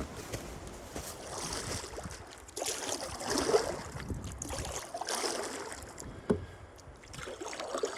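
Paddling a canoe: uneven paddle strokes and water washing against the hull, with one sharp knock past the middle.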